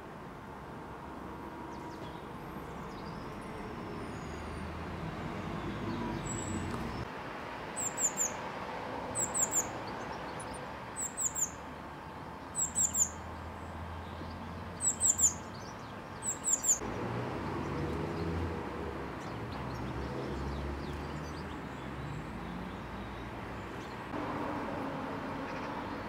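A small bird calling: short, very high chirps in clusters of two or three, repeated about every second and a half through the middle of the stretch, over a steady low background rumble.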